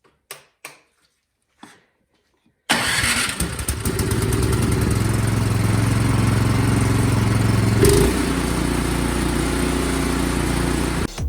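Craftsman snowblower engine starting suddenly about two and a half seconds in, after a few faint clicks, then running steadily: the repaired engine starts again. Its note changes briefly about eight seconds in.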